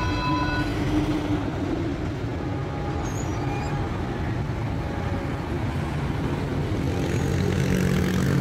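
Level-crossing warning signal sounding a steady electronic tone that cuts off about a second in, over the low rumble of a train moving away across the crossing. Near the end, road-vehicle engines start up and grow louder as traffic begins to cross.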